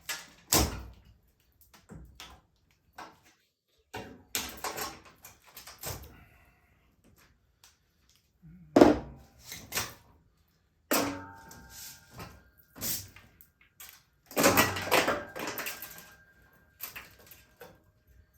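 Irregular clunks, knocks and rattles of a front-load washing machine's metal and plastic parts being handled and pulled apart during a scrap teardown, some clunks ringing briefly.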